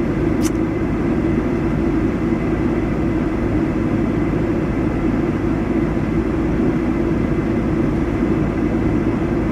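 Steady drone of an idling vehicle engine, even throughout, with one brief click about half a second in.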